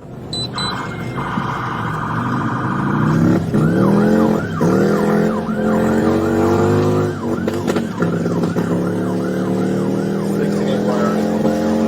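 Police siren switching from a rapid steady warble to a fast repeating yelp, over a vehicle engine revving up through several gears as it accelerates hard.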